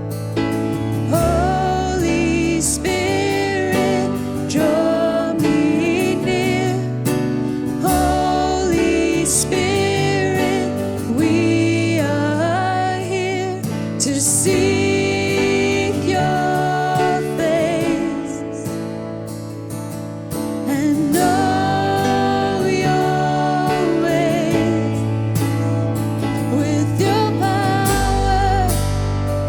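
Contemporary worship song: a voice singing over sustained instrumental backing with low notes that shift every couple of seconds.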